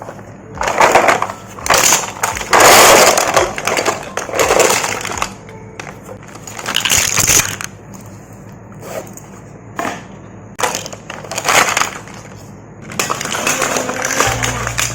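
Loud crackling, crunching noise coming in about eight irregular bursts, each lasting up to about a second, with short quiet gaps between them.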